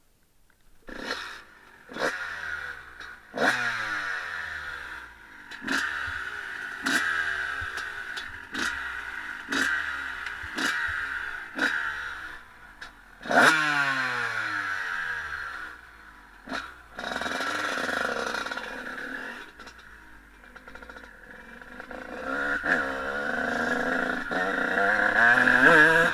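Honda CR125 two-stroke motocross engine, given a run of sharp throttle blips with the pitch falling away after each one. Near the end it builds into a longer, louder rise in revs.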